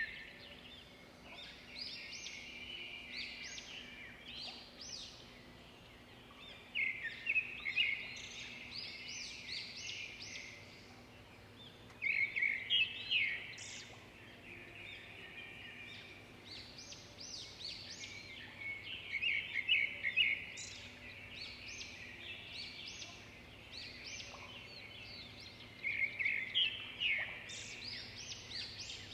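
Songbird singing in a park: the same loud phrase returns about every six or seven seconds, each opening with a quick run of notes and breaking into a jumble of higher, rising and falling notes, with quieter calls between phrases. A faint steady low hum runs underneath.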